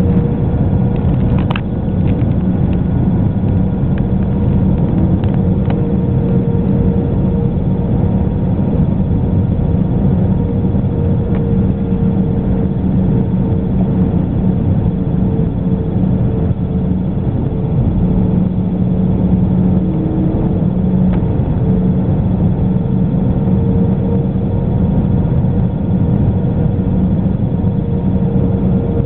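Airbus A319 airliner in flight, heard from inside the cabin: a steady jet-engine and airflow drone with a few constant hums running through it.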